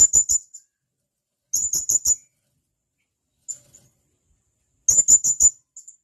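Blue-crowned hanging parrot (serindit) giving shrill, sharp calls in quick runs of four or five notes, three loud runs and a fainter short one in between.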